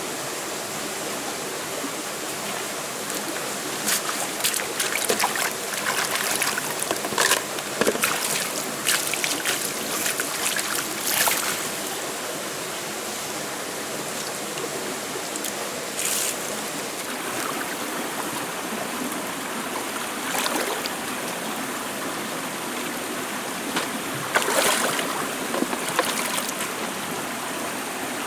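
Steady rushing of a forest stream, with scattered sharp clicks and knocks through the first half and again near the end.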